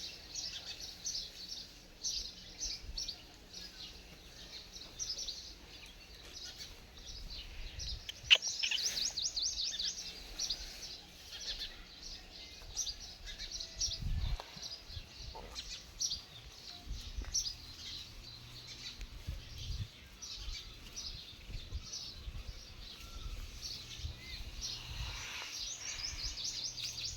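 Small birds chirping in quick repeated high twitters, thickest about eight seconds in and again near the end, over a low rumble. A single sharp click about eight seconds in.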